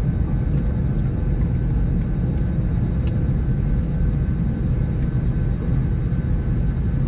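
Steady low rumble of jet airliner noise, with a faint steady whine on top.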